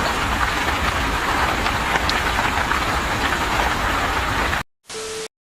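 Loud steady rushing noise with no clear pitch, cut off abruptly about four and a half seconds in, followed by a short snippet with a steady hum-like tone that also cuts off suddenly.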